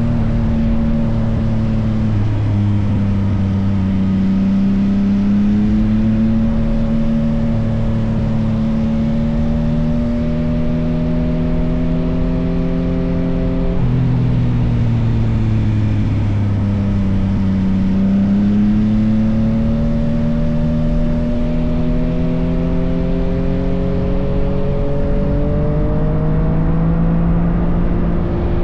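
Yamaha XSR900's three-cylinder engine running through an M4 full exhaust under way. The engine note climbs slowly for the first half, falls back around the middle, then climbs again near the end.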